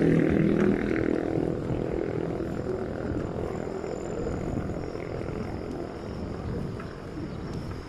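A motor vehicle's engine hum passing and fading away over the first second or so, followed by steady traffic and road noise that slowly grows quieter.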